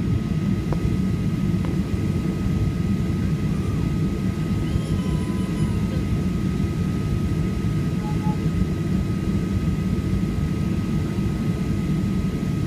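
Steady low rumble inside the cabin of a Boeing 737-800 with its CFM56 jet engines running, a thin steady whine over it.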